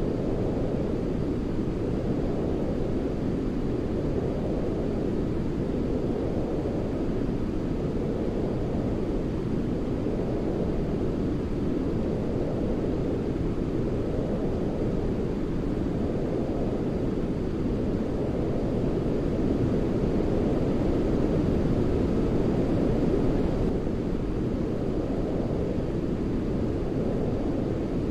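Steady white noise for baby sleep, deep-toned and weighted towards the bass like brown noise, with gentle swells about every four seconds. It grows slightly louder about three-quarters of the way through.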